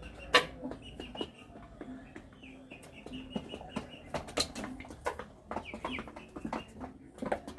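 Chickens feeding, with clucking over many sharp, irregular taps of beaks pecking at the feed.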